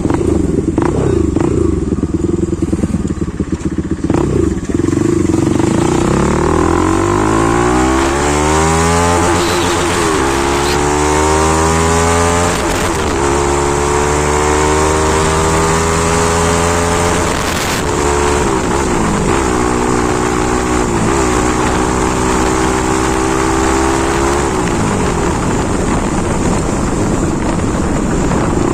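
Bajaj Pulsar NS200's single-cylinder engine through a modified aftermarket exhaust, running steadily at first. From about six seconds in it pulls up through the gears, the pitch rising and dropping back at each shift, then it holds a steady cruise with a few small dips.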